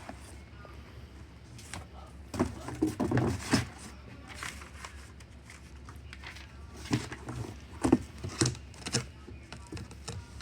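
Marker pen writing on the metal shell of a torque converter as it is signed: irregular short scratches and taps in two spells, about two seconds in and again about seven seconds in, over a low steady hum.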